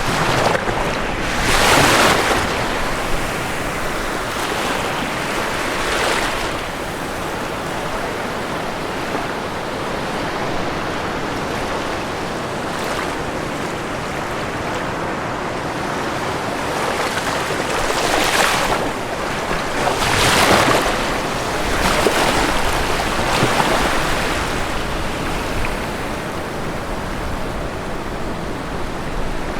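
Ocean waves breaking on a shore over a steady wash of surf, with crashes about 2 s in, at 6 s, and a cluster from about 18 to 24 s.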